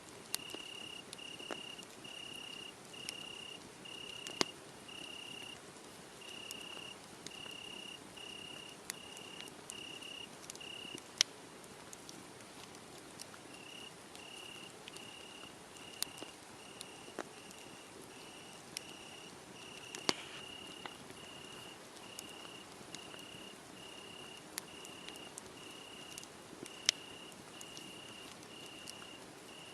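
Crickets chirping in a steady pulsed rhythm, a little more than one chirp a second, with a pause of about three seconds near the middle. Over it come scattered sharp pops and crackles from a wood fire.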